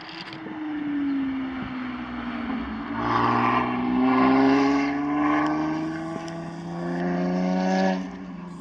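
Lotus Exige sports car's engine on track. Its pitch sags as the car slows into a corner, then climbs steadily under acceleration. It is loudest about halfway through as the car passes, then the pitch drops and it fades near the end as the car pulls away.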